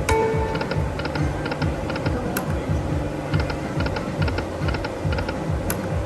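Magic Pearl Lightning Link video slot machine spinning: a short tone as the spin starts, then clusters of quick, light electronic ticks as the reels run and stop, with a couple of sharp clicks, over a steady low background of casino sound.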